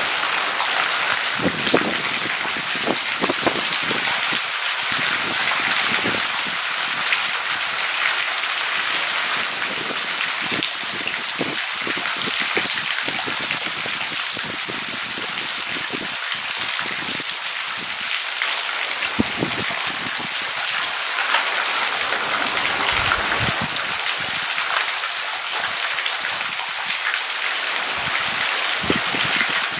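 Heavy rain falling steadily, with a dense hiss and many irregular taps of drops striking close to the microphone.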